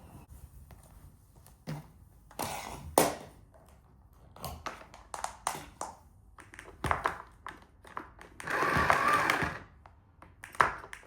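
A vacuum cleaner being handled after it has been switched off: a string of scattered clicks and knocks, with one louder scraping rush lasting about a second near the end.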